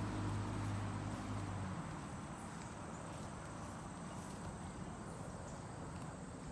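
Faint outdoor farm ambience with a steady high insect chirring, such as crickets. A low steady hum fades out about two seconds in.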